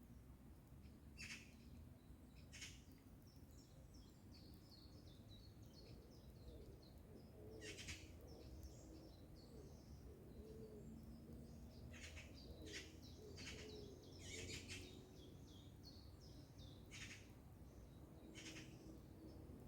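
Songbirds twittering with quick high chirps, broken about a dozen times by harsh rasping calls of Eurasian magpies chattering. Faint overall.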